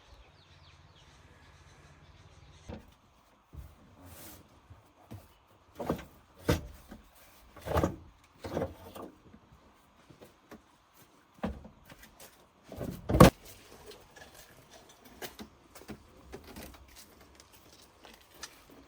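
A faint low hum, then a run of irregular knocks and clunks, like things being handled and set down, the loudest about 13 seconds in.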